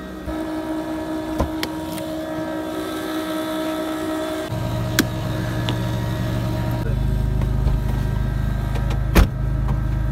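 Suzuki Cultus's engine running at idle, with a steady hum that becomes louder and deeper about halfway through. A sharp knock comes near the end.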